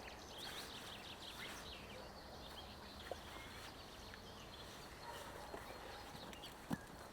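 Faint forest ambience with small birds chirping in quick short notes, mostly in the first second or two. A few sharp knocks stand out, the loudest near the end.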